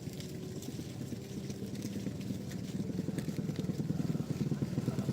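A small engine running with a fast, even beat, growing gradually louder.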